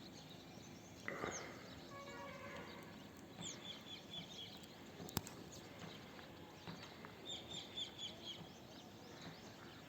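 Birds calling: high chirps, with two quick runs of about five repeated notes each. A single sharp click about five seconds in.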